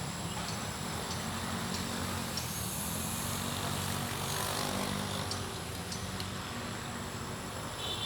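Twin small electric motors and propellers of a toy RC Boeing 787 running in flight, a little louder about halfway through.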